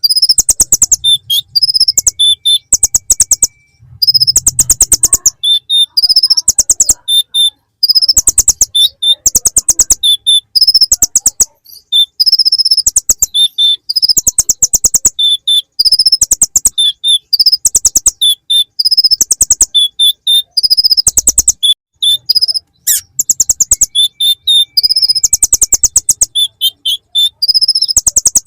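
Kolibri ninja (konin) sunbird singing a loud, very high, fast chattering song in repeated bursts of rapid trills and ticks, its song filled with mimicked ciblek (bar-winged prinia) phrases.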